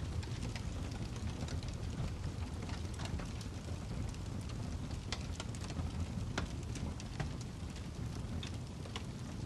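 Wood fire burning in a fireplace, with a steady low rumble of the flames and irregular sharp crackles and pops from the burning logs.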